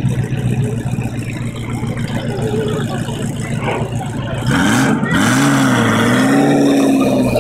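Ferrari F40's twin-turbo V8 idling, then revving about four and a half seconds in as the car pulls away slowly. The engine note climbs, dips briefly and holds at a higher pitch.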